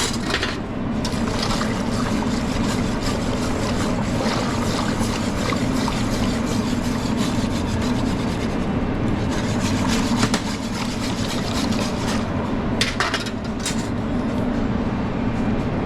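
Steady low kitchen hum with rubbing and scraping from cooking work, and a couple of sharper scrapes about thirteen seconds in.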